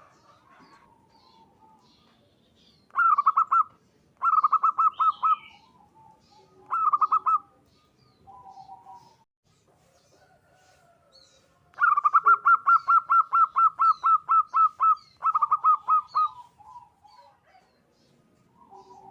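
Zebra dove (perkutut) cooing in fast staccato runs of notes: three short runs in the first part, then a long run of about fifteen notes past the middle, followed by a shorter one. Softer, lower coos fall between the runs, and faint high chirps of small birds sound in the background.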